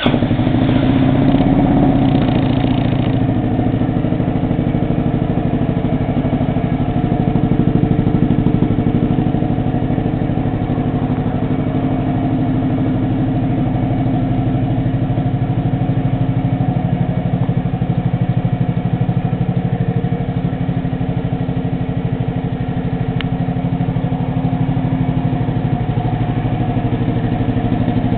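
Honda Forza Z 250cc scooter's single-cylinder four-stroke engine, breathing through an aftermarket stainless steel muffler, idling steadily just after starting; it runs a little faster for the first three seconds before settling into an even idle.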